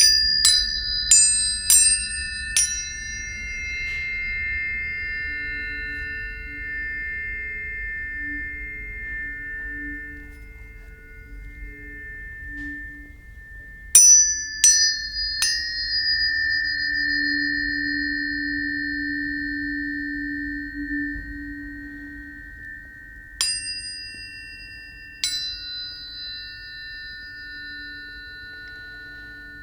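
Planetary tuning forks being struck one after another, each with a sharp tap followed by a long, pure, high ring. The rings overlap and slowly fade. There is a quick run of five strikes at the start, three more about halfway through, and two near the end.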